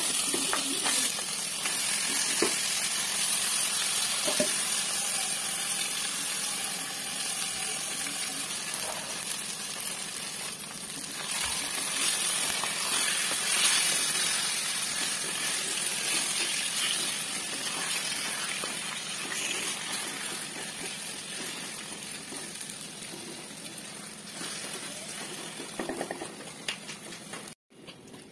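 Masala-coated chicken pieces frying in hot oil with chopped shallots in a clay pot. The sizzle is loud at first and slowly dies down as the pan settles, with a few light knocks along the way.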